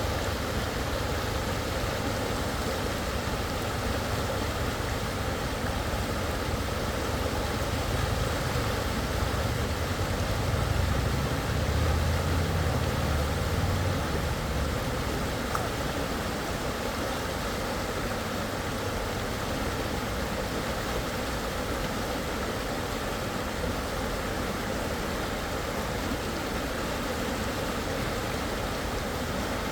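Steady rush of fast stream water, the current that salmon are swimming up against. A low rumble swells underneath from about 8 seconds in and fades out around 15 seconds.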